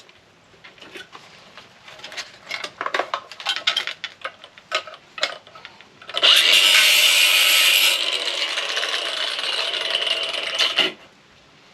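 Metal parts of a microwave being handled and pulled apart, with scattered light clicks and rattles. About six seconds in, a loud scraping or grinding noise starts suddenly, runs for nearly five seconds, and then stops.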